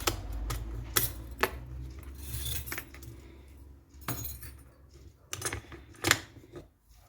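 Metal parts and hand tools of an airsoft rifle being handled on a workbench: irregular clinks and knocks, the sharpest one about six seconds in.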